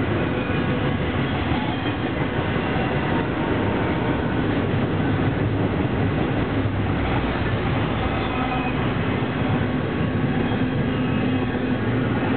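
Double-stack container train rolling past: the steady, unbroken rumble and rattle of the loaded well cars' steel wheels running on the rails.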